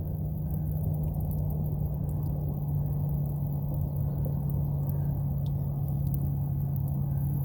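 An engine running steadily, a constant low drone with no change in pitch.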